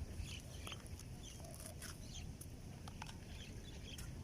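Faint, scattered short bird calls over low outdoor background noise, with a few light clicks.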